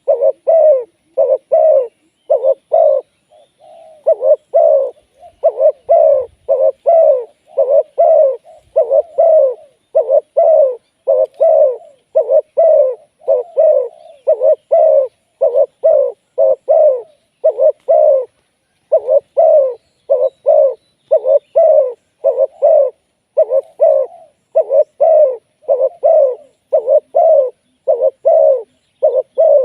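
Spotted dove cooing over and over: loud, low hooting notes about two a second, in phrases broken by brief pauses.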